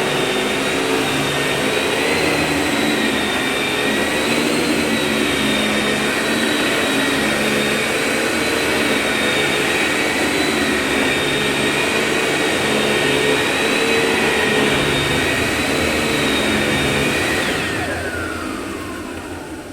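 Vacuum cleaner motor running steadily with a loud rushing hiss and a high whine, then switched off about 17 seconds in, its whine falling in pitch as the motor spins down.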